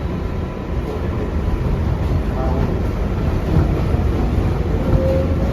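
Interior of an R142A subway car in motion: a steady rumble of wheels on rail and traction motors that grows gradually louder, with a faint rising whine near the end.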